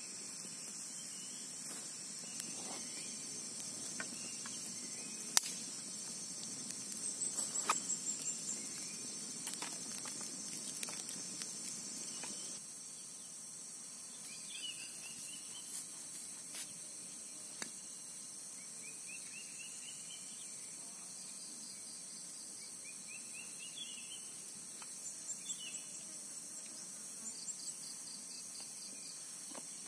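Steady high-pitched chorus of insects in the forest, with scattered clicks and knocks in the first dozen seconds. In the second half come several short rising chirps.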